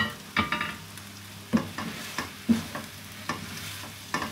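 A utensil scraping and knocking against a cooking pan as mashed potato is scooped out, about a dozen sharp, ringing clanks at an uneven pace, over a steady sizzle from the pan on the still-lit burner.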